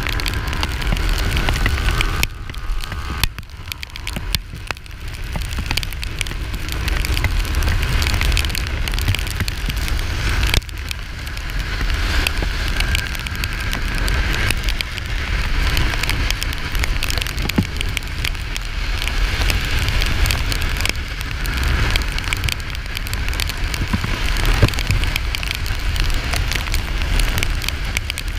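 Steady rush of wind and road noise while riding a Kawasaki Ninja 400 motorcycle. The noise dips briefly a few seconds in and again about ten seconds in.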